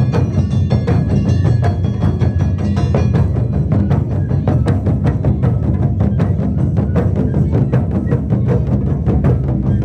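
Live Japanese taiko drum ensemble playing a fast, loud, driving rhythm of many strokes a second.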